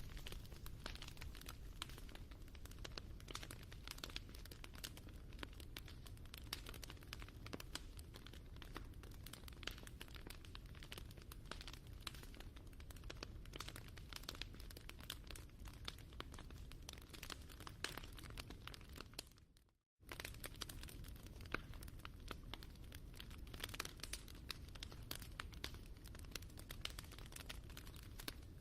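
Wood fire crackling, many small pops and snaps over a low rumble; the sound fades out and starts again just before twenty seconds in.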